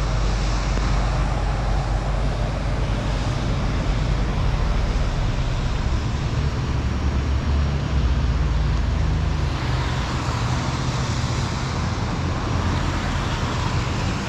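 Steady road noise of a car driving: a low engine and road hum under a continuous hiss.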